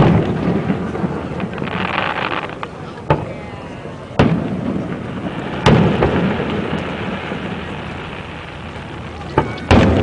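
Aerial firework shells bursting with booms that trail off into a rolling rumble, with crackling between them. Bangs come at the start, about three and four seconds in, near the middle, and two close together near the end.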